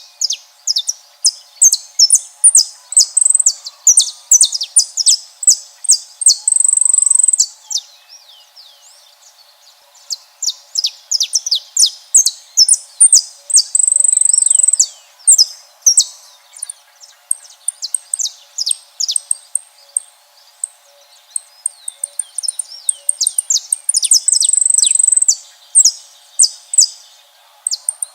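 Saffron finch song: fast runs of sharp, high chirping notes, three times drawn out into a long held high trill, with two brief lulls about eight and twenty seconds in.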